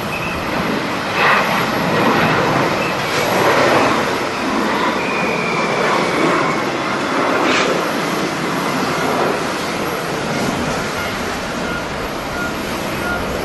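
Jet airliner engines running with a loud, steady rush, with a faint high whine sliding slightly downward about halfway through.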